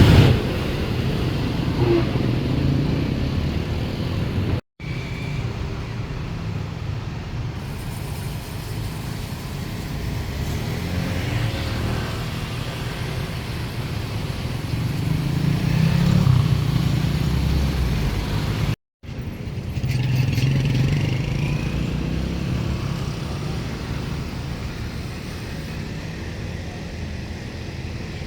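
Steady low engine rumble that swells and fades slowly, broken twice by brief dead-silent gaps.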